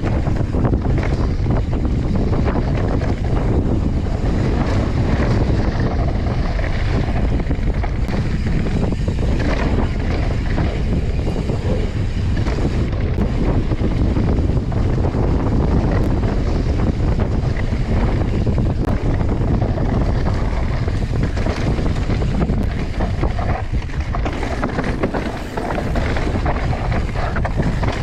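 Wind buffeting a chest-mounted GoPro as a mountain bike rides fast down a dirt trail: a steady low rumble of wind and tyres, broken by constant small clatters and knocks as the bike goes over bumps.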